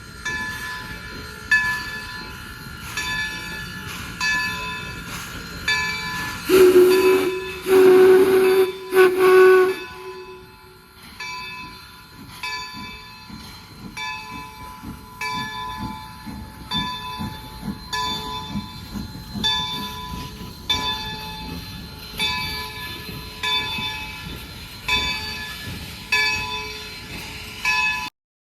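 A passing train with a bell ringing in a steady beat, a little more than once a second. A locomotive whistle gives three blasts, a short one, a long one and a short one, partway through. The whistle blasts are the loudest sound.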